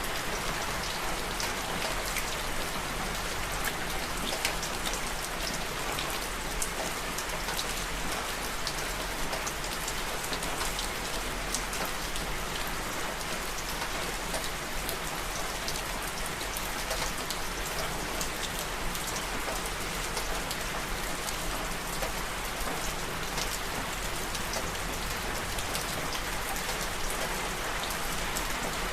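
Steady rain falling, an even hiss dotted with the ticks of individual raindrops hitting a surface.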